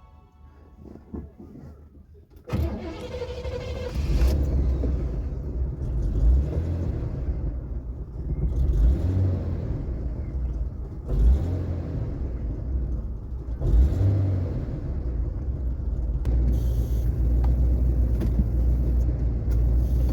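1981 Cadillac Seville driving slowly, heard from inside the car: a low engine and road rumble that comes in suddenly about two and a half seconds in and swells every couple of seconds.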